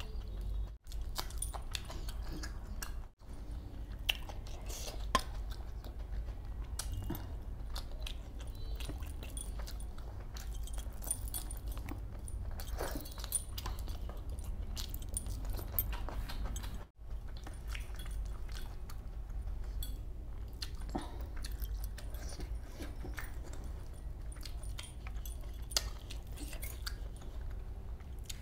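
A person chewing and eating spicy fish masala by hand, with many wet mouth smacks and clicks, and a light jangle of metal rings and bracelets at times. A steady low hum lies underneath, and the sound cuts out briefly three times.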